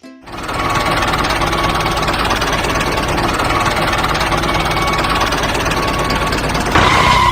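Tractor engine running steadily with a fast, even chugging. It starts abruptly and cuts off suddenly near the end.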